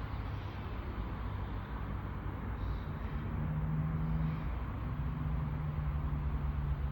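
Class 158 diesel multiple unit idling at the platform: a steady low engine hum and rumble that grows a little stronger about two and a half seconds in.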